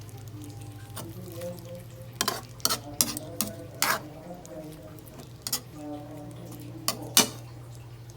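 Stirring a pan of chicken à la king: a utensil scrapes and clinks sharply against the pan about eight times over a faint sizzle and a low steady hum.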